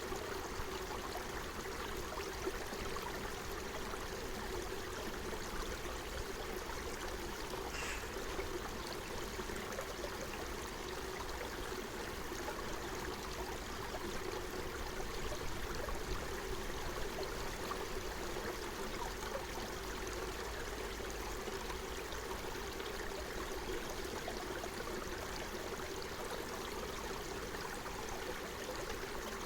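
Forest stream flowing over stones, a steady, even burble of running water. A brief high sound comes about eight seconds in.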